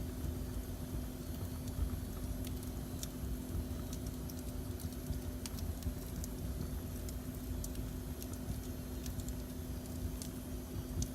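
Wood fire burning in a fireplace: irregular sharp crackles and pops over a low, steady rumble, with a faint steady hum underneath.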